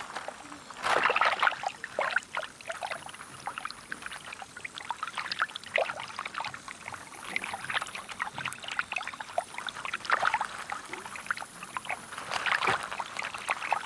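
Watery sloshing and trickling with many small irregular clicks and crackles, loudest in a burst about a second in.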